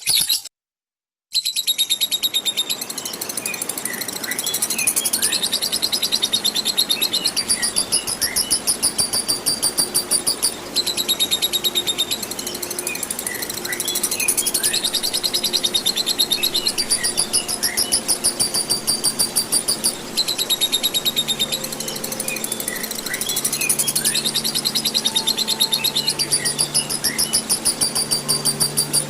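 Lovebird 'ngekek': a long, rapid, high-pitched chattering trill that runs on without a breath for about ten seconds at a stretch, broken by two short pauses. Short chirps sound in the background.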